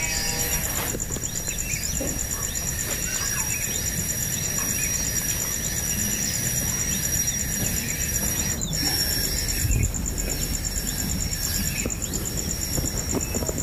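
Outdoor ambience: a steady, high-pitched pulsing insect trill with scattered short bird chirps, over a constant low rumble.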